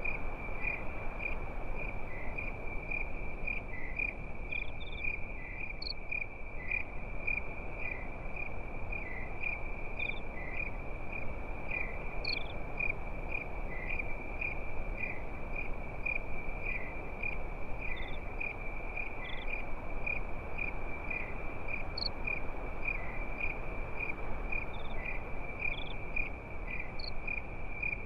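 Crickets chirping steadily at one high pitch, about two to three chirps a second, over a steady low rushing hiss.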